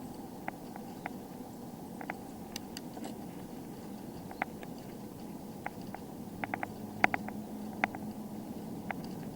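Bicycle being ridden: a steady low rumble of tyres and air, with irregular sharp clicks and rattles, several close together about seven seconds in.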